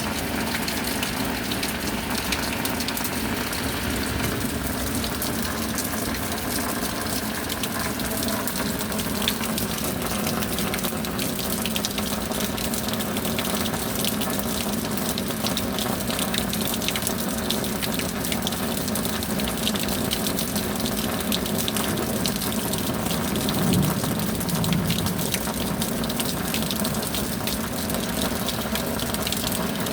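Steady rain with water gushing and pouring, a dense even hiss dotted with fine drop crackle, swelling briefly in the low end about three-quarters of the way through.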